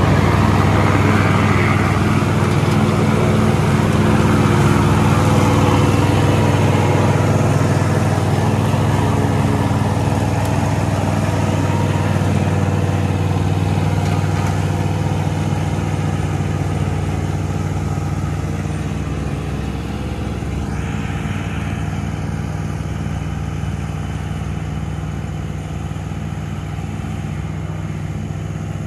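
John Deere Z320R zero-turn mower's engine running steadily, easing off a little in loudness over the stretch.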